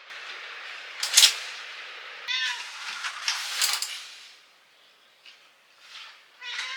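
Domestic cat meowing, a short meow about two seconds in and another near the end, with louder rushes of hissy noise about a second in and again around three and a half seconds.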